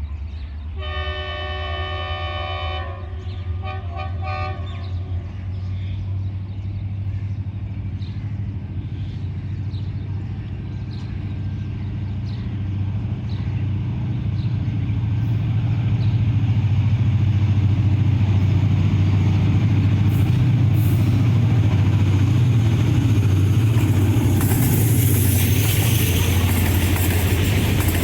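Diesel locomotive sounding its multi-note horn in one long blast, then two short toots, as it approaches; its engine rumble builds and grows loud as the express train passes at speed, with rushing wheel and wagon noise rising near the end.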